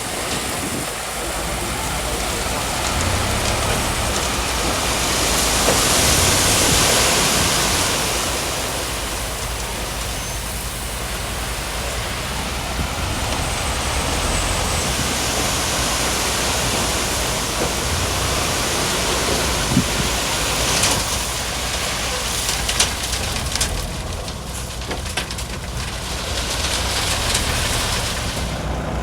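Diesel engine of heavy earthmoving machinery running steadily under a broad hiss that swells and fades, with a few sharp knocks about two-thirds of the way through.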